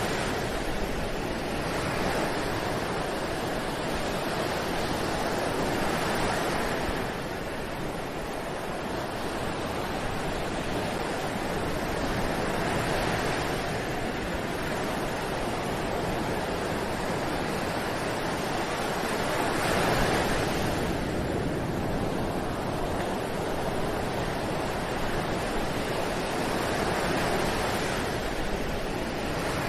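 Ocean surf breaking and washing up a beach, a steady rush that swells and eases about every six or seven seconds as each wave comes in.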